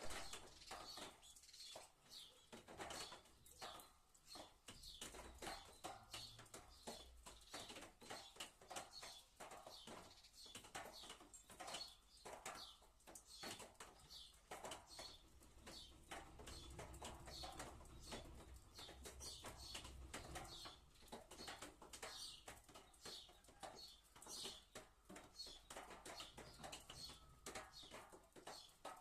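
Faint sparrows chirping continually in the rain, with many short ticks of rain patter running through the chirps.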